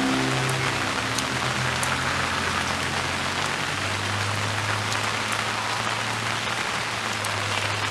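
Steady rain falling, an even hiss of drops with scattered faint ticks, as the last piano notes die away about a second in.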